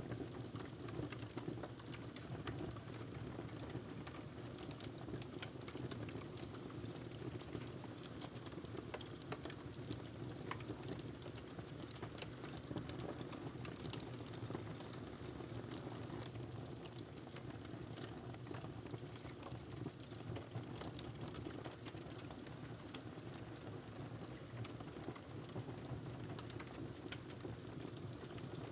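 Wood fire crackling in a fireplace: many small irregular crackles and pops over a steady low rumble.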